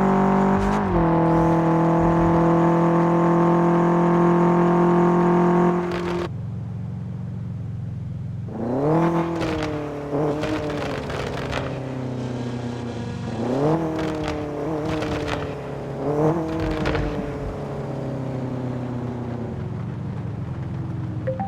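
An engine held steady at high revs, which cuts off sharply about six seconds in to a lower idle. It is then revved four times in quick throttle blips, each rising and sinking slowly back to idle.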